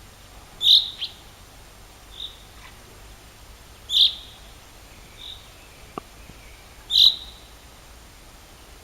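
A bird calling: three loud, short, high notes about three seconds apart, with softer notes in between. A faint click sounds about six seconds in.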